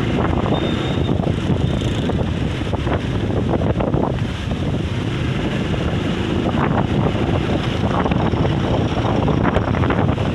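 Strong sea wind blasting across the microphone: a loud, continuous buffeting rumble that swells and dips without a break.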